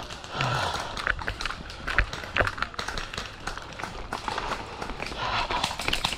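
Footsteps and rustling of clothing and gear as a player moves on foot, with irregular knocks and clicks.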